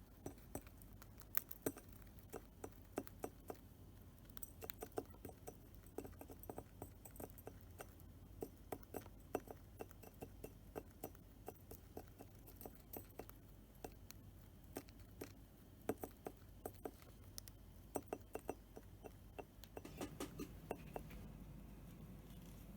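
Cockatiel picking at and chewing small hard objects with its beak: faint, irregular light clicks and taps, a few a second.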